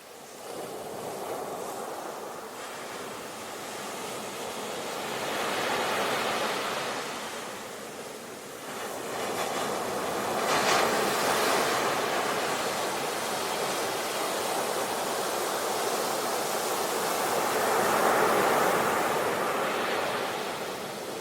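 Sea waves breaking and washing on a shore, swelling and falling in slow surges, with the biggest breakers about halfway through and again near the end.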